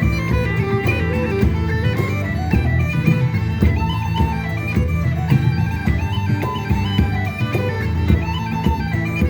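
Bagpipes playing a folk tune: a stepping melody over steady low drones.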